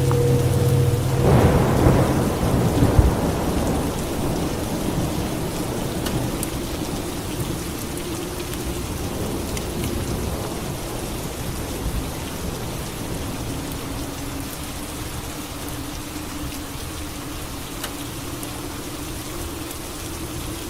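Steady rain falling, with a thunderclap about a second in that rumbles and dies away over the next couple of seconds.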